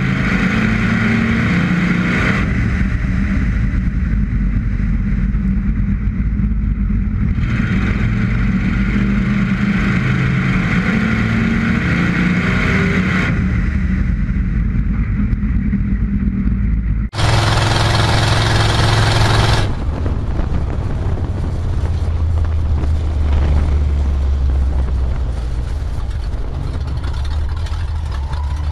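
Derby car's engine running hard on the track, its sound rising and falling in stretches of a few seconds, heard from the hood-mounted camera. About 17 seconds in the sound cuts abruptly to a loud rush for a couple of seconds, then a steadier, lower engine drone.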